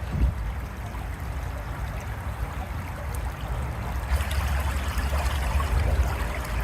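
Small brook babbling and trickling steadily over its bed, a little louder from about four seconds in.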